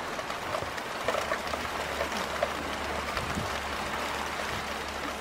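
Rain falling during a thunderstorm: a steady hiss with many small drop ticks. A low steady rumble sits underneath through the middle.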